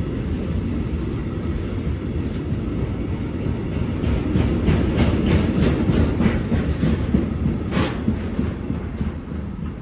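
Freight train passing close by: a steady, heavy rumble of wheels on the rails, with a run of quick, evenly spaced clacks over rail joints in the middle and one louder clack near the end.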